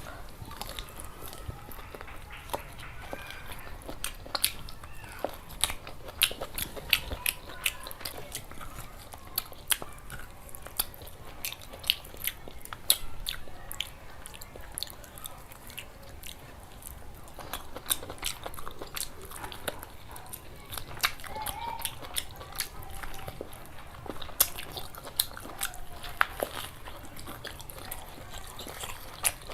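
Close-up sounds of a person chewing and biting curry with rice: many irregular sharp, wet mouth clicks and smacks with some crunching.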